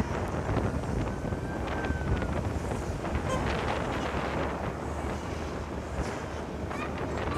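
Wind buffeting the microphone of a moving motorcycle, a steady rush with road and traffic noise beneath it.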